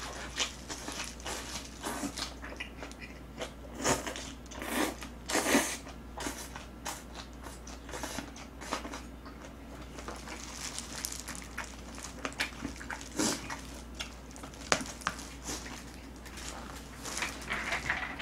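Close-miked chewing of boiled pork wrapped in green onion kimchi: irregular wet mouth clicks and bites in uneven bursts, the loudest about four to six seconds in.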